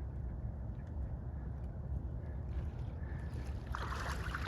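Wind rumbling on the microphone. About three-quarters of the way through, a dense rushing chatter of a large flock of ducks rises and carries on.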